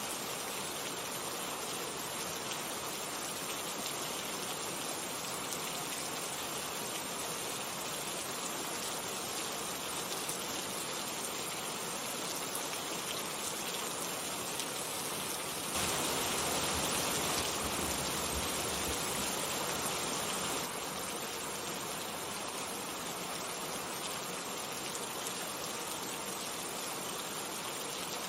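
Steady rain falling, an even hiss of many drops, which gets louder for about five seconds past the middle and then settles back.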